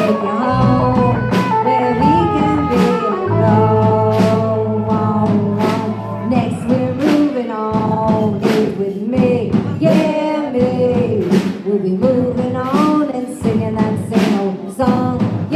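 Live rock band playing: electric guitar and bass over a steady drum beat.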